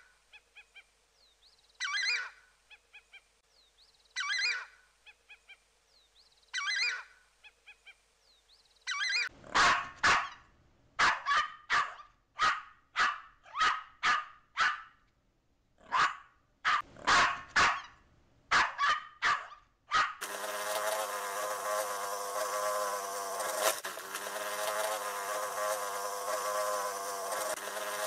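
A southern screamer (xajá) calling for the first nine seconds: a loud honking call about every two seconds with softer notes between. Then a Yorkshire terrier barking, a run of about twenty short sharp barks. From about twenty seconds in, a drone honeybee buzzing steadily.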